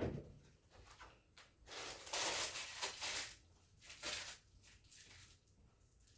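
A few scratchy, swishing strokes across the floor during floor cleaning, one longer stroke about two seconds in and a shorter one about four seconds in.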